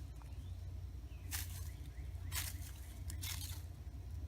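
Three brief rustling crunches of movement through dry leaves and brush, spaced about a second apart, over a steady low rumble.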